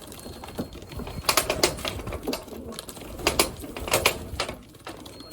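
Young racing pigeons flapping and clattering in quick irregular bursts as they come down at the loft.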